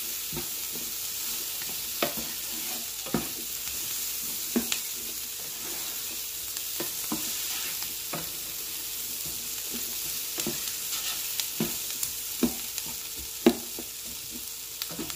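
Diced potatoes, peppers and onion sizzling as they brown in an electric skillet, with a steady hiss. A silicone spatula stirs them, scraping and knocking against the nonstick pan every second or so at an uneven pace.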